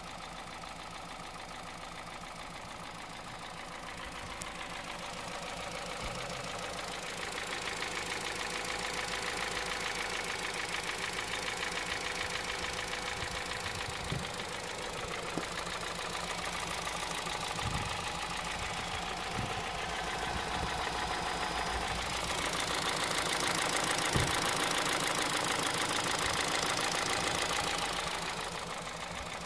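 2009 Honda Civic Hybrid's 1.3-litre engine running with a steady, rapid knocking; the owner cannot tell whether it is the timing chain, piston slap or bearings. It grows louder a few seconds in, and louder again for several seconds near the end.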